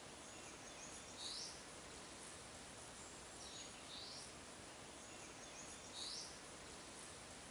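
Faint outdoor woodland ambience: a soft steady hiss with a small bird's short, quick call heard three times, about every two and a half seconds.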